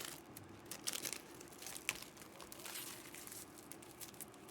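Trading card pack wrappers being torn open and crinkled, in quick irregular crackles.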